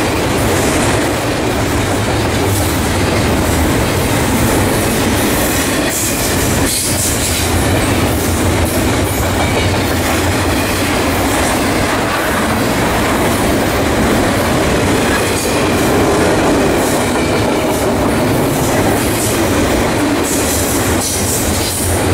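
Double-stack intermodal freight train's loaded well cars rolling steadily past close by: the continuous noise of steel wheels running on the rails.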